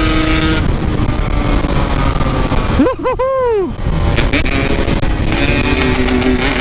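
Yamaha RX-King two-stroke motorcycle engine running at road speed under heavy wind noise; its steady note drops about half a second in, and around three seconds in the revs rise and fall in a quick run of throttle blips.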